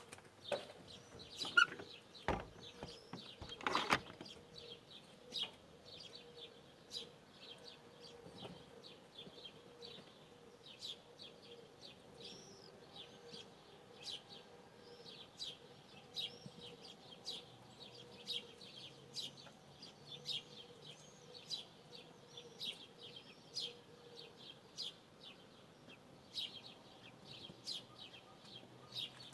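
Small birds chirping, many short high notes repeating one after another. A few louder sharp knocks in the first four seconds.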